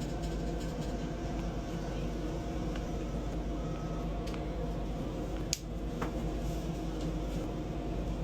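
Steady hum of a high-speed train's business-class cabin, with a few faint ticks and one sharp click about five and a half seconds in.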